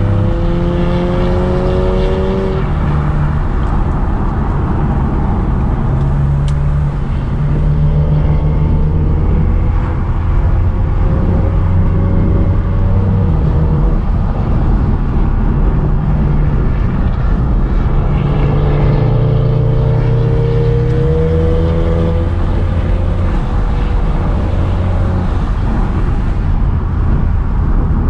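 Car engine running under load, its pitch climbing three times as it revs up and then dropping, over a steady low drone.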